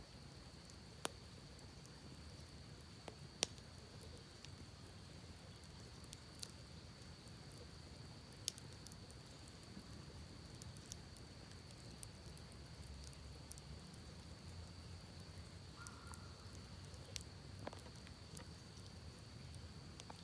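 Wood campfire crackling faintly, with irregular sharp pops scattered among quieter ticks, over the low steady rush of a creek.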